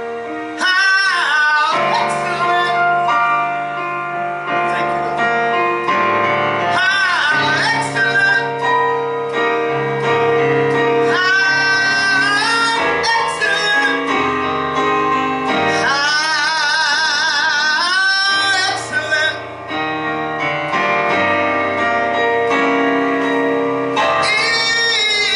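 Gospel song: a woman's voice sings long held notes with wide vibrato over sustained instrumental accompaniment.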